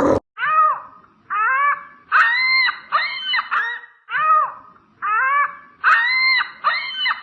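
An animal's repeated short, high-pitched calls, each rising and then falling, about ten of them in quick groups of two or three.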